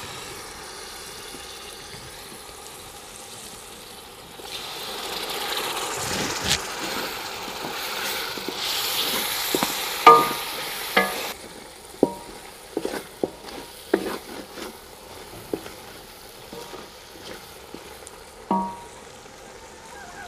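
Onion, tomato and spice masala sizzling in a large aluminium pot after a splash of water is added, the sizzle swelling about four seconds in and falling away about halfway through. A wooden spatula then knocks and scrapes against the pot in a string of sharp clacks as the masala is stirred.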